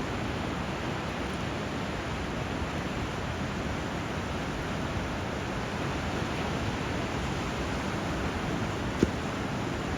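Steady rush of flowing water where a river runs into the sea, even and unbroken, with one sharp click about nine seconds in.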